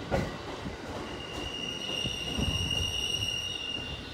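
JR East E231 series 500 commuter train moving slowly away along the track, its wheels knocking over rail joints with a low rumble, and a steady high wheel squeal setting in about a second in and fading near the end.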